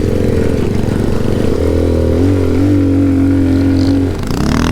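Alpha moped's engine running as it is ridden, its pitch holding steady, shifting about halfway through, then dropping briefly near the end and revving back up.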